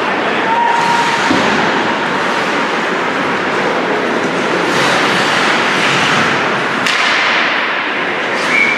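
Ice hockey rink noise with continuous skate and ice scraping, and a sharp crack about seven seconds in. Near the end a referee's whistle starts, a steady high tone.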